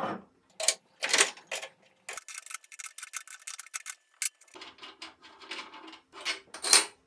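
Metal clicks and clinks of tools and parts as the cutters are changed on a horizontal milling machine's arbor, with a run of fast light ticking about two seconds in.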